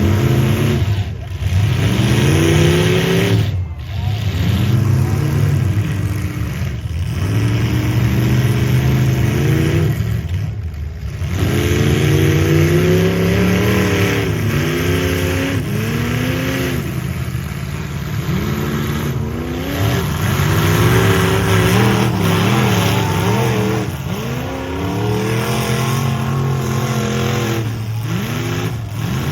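Car engines revving hard over and over, the pitch climbing and then dropping every couple of seconds.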